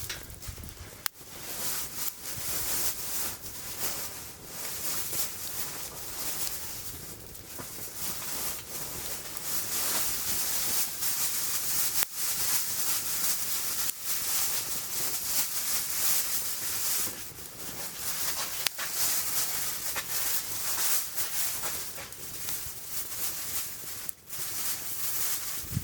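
Food frying in a hot pan over a wood fire: a steady high sizzle that grows stronger about eight seconds in, with a few sharp crackles.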